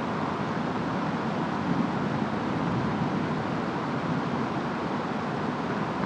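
Steady rainstorm with wind: a dense, even rush of rainfall that holds at the same level without breaks.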